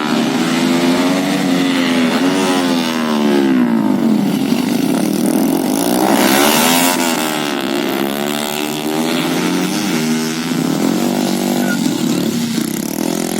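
Superstock-tuned Honda RS150 single-cylinder four-stroke motorcycle engine at high revs, its pitch falling and rising again and again, highest about six to seven seconds in.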